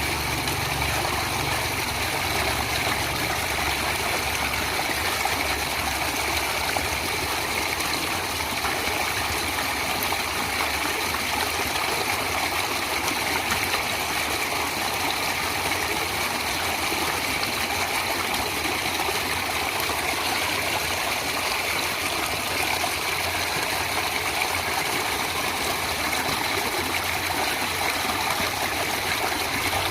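Stream water flowing steadily in a continuous, even rush with a low, restless churn underneath.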